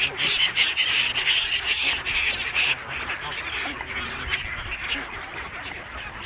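A flock of birds calling noisily while being fed bread, a dense overlapping chatter that is busiest for the first three seconds and then thins out.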